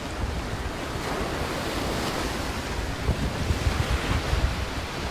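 Wind buffeting the microphone with a steady rushing noise, gusting harder in the second half.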